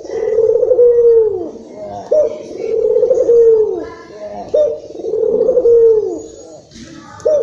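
Puter dove (domesticated collared dove) cooing repeatedly, about three phrases, each a short sharp note followed by a long rolling coo that swells and then falls in pitch. This is the excited calling used as a lure to get other puter doves to answer.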